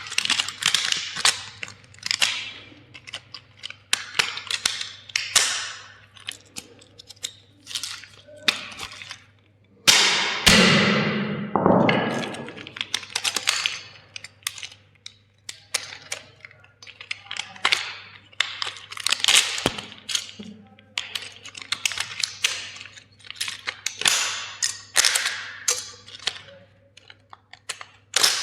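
Plastic toys cracking and crunching in a fast series of sharp snaps, with one louder, longer crunch about ten seconds in.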